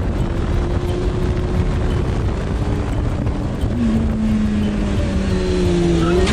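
A motorcycle running on the road with heavy wind buffeting the microphone. Its engine note drops in pitch a little before halfway and climbs again near the end.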